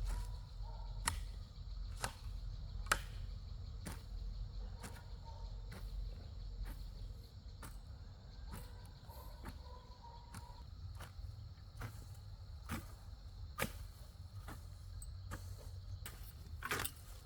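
Sharp knocks or ticks, roughly one a second, over a steady high thin hum and a low rumble.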